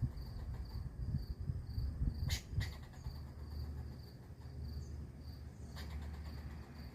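A cricket chirping steadily at a high pitch, about two to three chirps a second, over a low rumble on the microphone. A few sharp clicks come around the middle and near the end.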